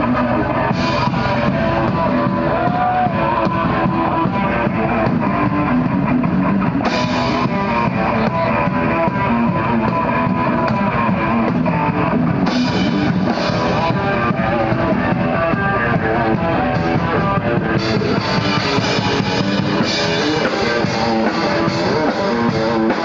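A live rock band playing, with electric guitar and drum kit, loud and steady throughout.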